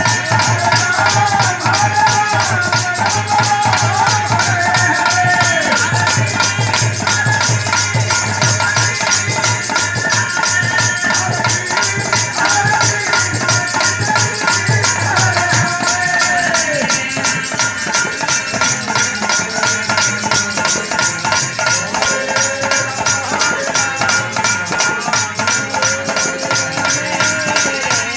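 Hari kirtan music: a wavering melody line over a fast, steady beat of shaken, jingling percussion. A low sustained note drops out about halfway through.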